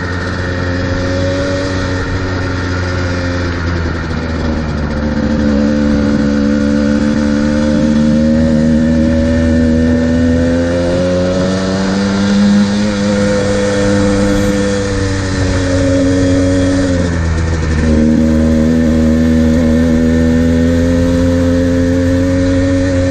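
Two-stroke dirt bike engine running hard at speed, its pitch rising and falling as the throttle is opened and eased, with a quick drop and recovery about three quarters of the way through. Wind rushing over the microphone throughout.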